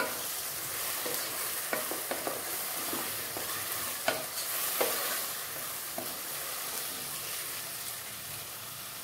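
Sliced onions and tomato sautéing in oil in a nonstick pot: a steady sizzle, with scattered light knocks and scrapes as a wooden spatula stirs them.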